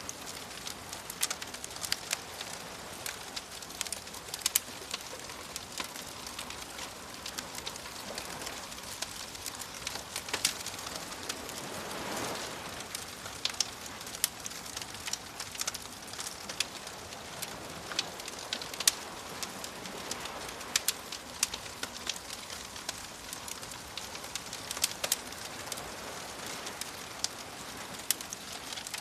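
Wood fire crackling, with many sharp pops scattered throughout, over a steady soft wash of waves; one wave swells up and falls away near the middle.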